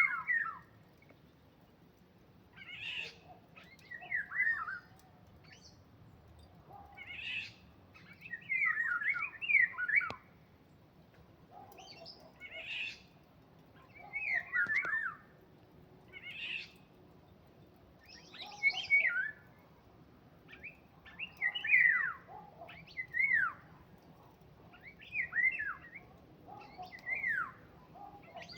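A songbird singing over and over in short phrases of quick, downward-sliding whistled notes, a new phrase every second or two.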